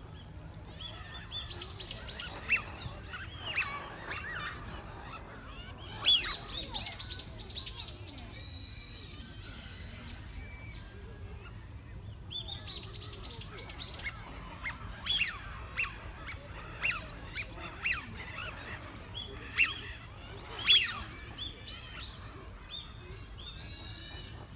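Birds calling in three bursts of quick, falling chirps, over a steady low rumble.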